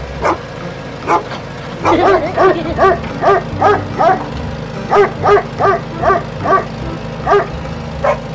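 A dog barking in short, sharp yaps. A few single barks come first, then two quick runs of about two to three barks a second, then two more single barks near the end.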